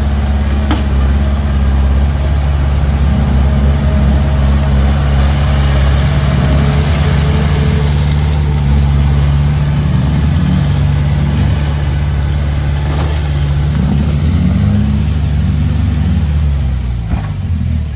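Heavy diesel engine of earthmoving machinery running loud and steady, its pitch rising and falling as it works under changing load. A few short knocks come through, about a second in, near 13 s and near the end.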